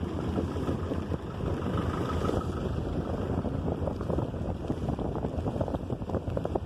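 Wind buffeting the microphone of a moving motor scooter: a dense, fluttering rumble with road and engine noise underneath.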